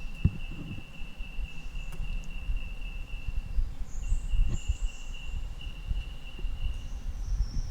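An insect's steady high-pitched trill, breaking off for a moment about halfway through and resuming, with fainter higher buzzes of other insects. An irregular low rumble runs underneath on the microphone.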